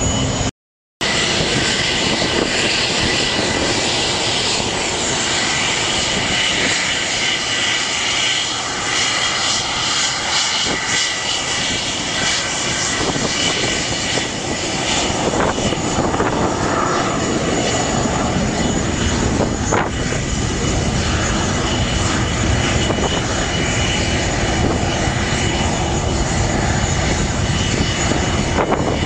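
English Electric Lightning jet engines running loud and steady: a continuous roar with a high whine on top. The sound drops out for a split second just under a second in.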